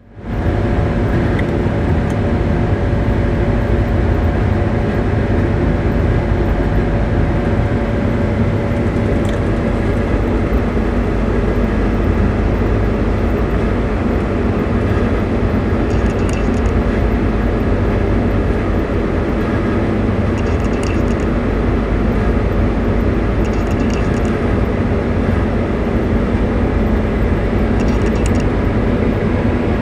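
Claas Jaguar 980 self-propelled forage harvester running steadily under full load, its V12 engine and cutterhead chopping a heavy triticale windrow and blowing silage into a truck. Strong wind buffets the microphone.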